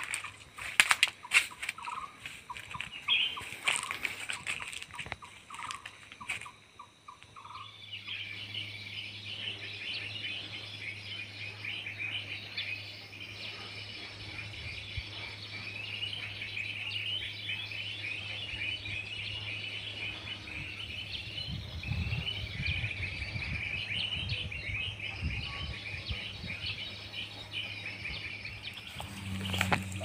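Wild birds calling in forest. At first there are a few repeated short notes among scattered clicks. After a cut, a dense, continuous chatter of many short high chirps runs over a steady low hum.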